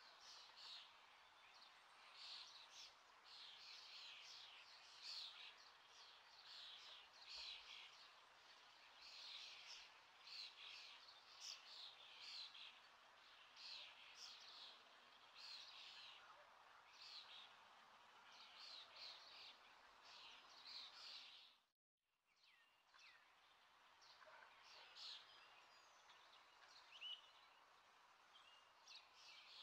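Faint chirping of small birds: many short, high calls in quick succession. The sound cuts out completely for a moment about 22 seconds in.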